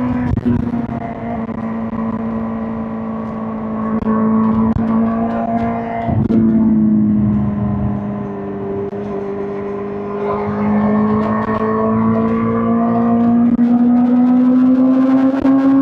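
2005 Suzuki GSX-R1000 K5's inline-four engine running under way at fairly steady revs, the pitch sagging slightly through the middle and then rising gradually near the end as it accelerates.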